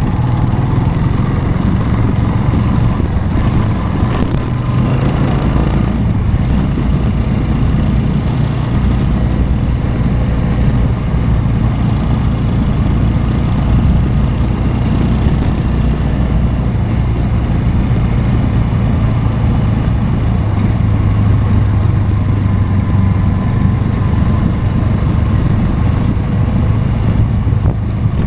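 Motorcycle engine running steadily while riding, its pitch rising and falling a little with the throttle.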